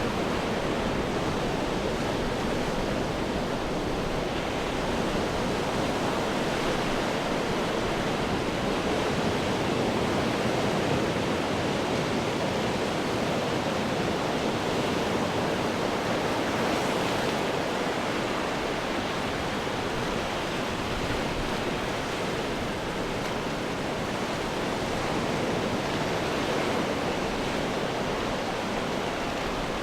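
Sea surf washing against rocks, a dense steady roar of water with no distinct single wave breaks.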